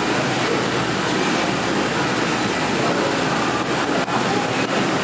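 Steady ramen-shop room noise: a constant air-conditioning or ventilation hum with indistinct background sound under it.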